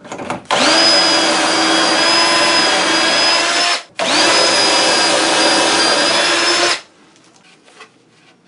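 Power drill driving pocket-hole screws in two runs of about three seconds each, each spinning up quickly and then holding a steady whine.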